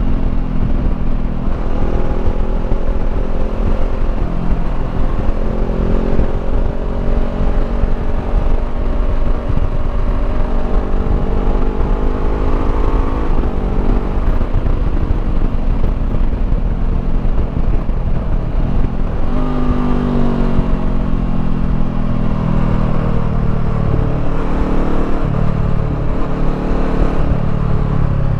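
2016 Honda CBR500R parallel-twin engine through a Termignoni slip-on exhaust, ridden on the road. The revs climb in pulls, drop back at a gear change about halfway, then rise again and slowly fall off near the end. Low wind rumble sits underneath throughout.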